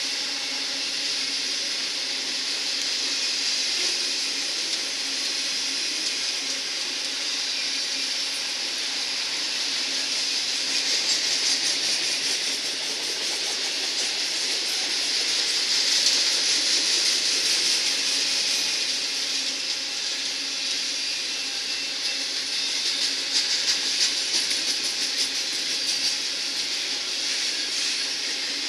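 Autorack freight cars of a vehicle train rolling past: a steady hiss of steel wheels on rail, swelling a little at times, with faint clicking from the wheels now and then.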